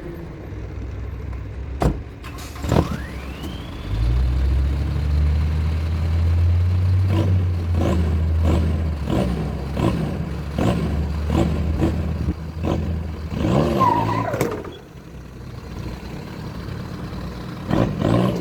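A mini truck's engine comes in about four seconds in and runs steadily under load for several seconds, with a string of sharp clicks or knocks over it.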